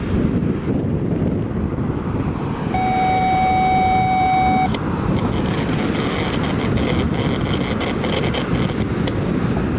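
Freight train of loaded covered hopper cars rolling past with a steady low rumble. A single steady tone sounds for about two seconds near the middle and then cuts off.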